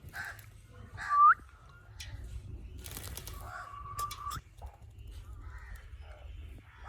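Parrot calling: a short loud squawk that sweeps down and back up about a second in, then a longer, steadier call around three to four seconds in.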